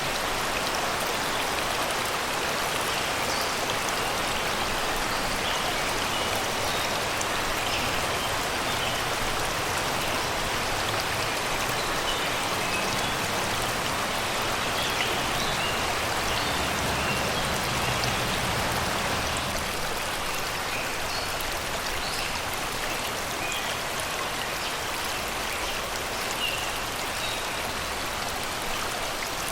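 Shallow river flowing steadily over rocks and stones, a continuous babbling rush of water, with faint scattered bird chirps above it.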